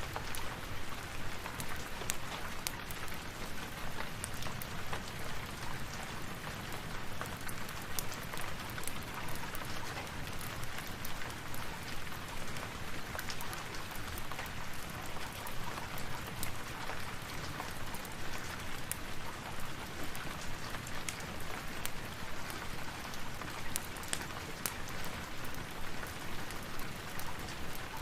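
Steady rain, with frequent small sharp crackles of a wood fire scattered through it.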